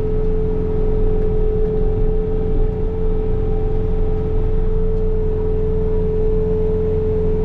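Bobcat T66 compact track loader's diesel engine running steadily under load, driving its snow blower attachment, with a constant whine over the engine's low drone.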